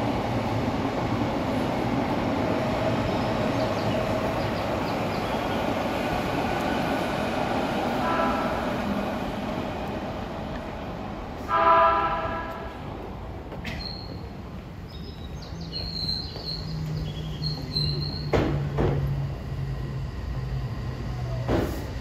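Odakyu Kuya 31 'Techno Inspector' inspection car, leading an 8000-series train, rumbling into the station and sounding its horn twice: a short faint blast about eight seconds in, then a louder one about three seconds later. It then brakes to a stop with high squeals and a low hum.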